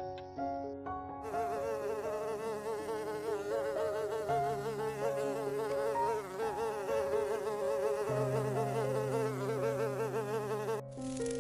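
A flying insect buzzing, its pitch wavering up and down, starting about a second in and stopping near the end, over background music with sustained notes.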